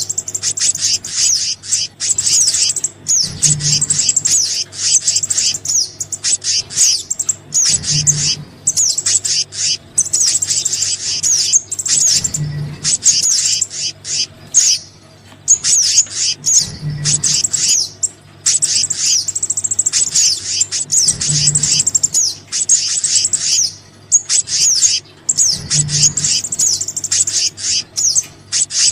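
Bird-lure recording of small songbirds, sogon and kehicap calls combined: a dense, unbroken run of fast, high chirps and trills. A faint low hum swells about every four and a half seconds.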